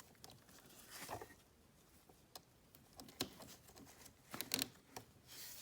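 Faint rustling and a few light clicks of hands handling and positioning a cable, the clearest clicks a little after three seconds and about four and a half seconds in.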